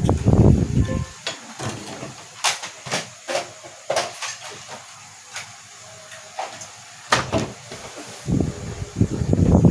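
Sharp clicks and knocks of projector parts being handled and fitted as the casing is put back together, several over a few seconds. A low rumbling noise, like wind on the microphone, fills about the first second and returns near the end.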